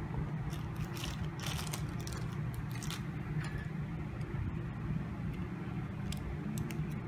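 Scattered light clicks and taps of small phone parts being handled as a Redmi 4A is reassembled, over a steady low background hum.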